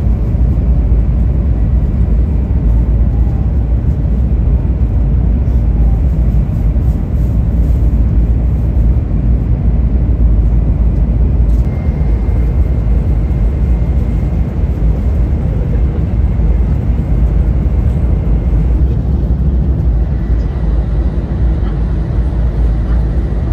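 Steady low rumble of a 500 Series Shinkansen running, heard from inside the passenger cabin, with a faint high whine that comes and goes.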